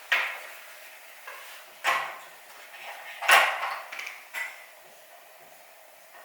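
Writing strokes as a kanji is written by hand: a handful of short, sharp taps and scrapes of the writing tool. The loudest comes a little past the middle, and the strokes stop about five seconds in.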